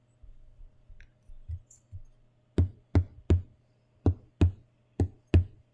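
A run of sharp, loud knocks in a rough beat, starting about two and a half seconds in: three quick knocks, then pairs of knocks about a third of a second apart.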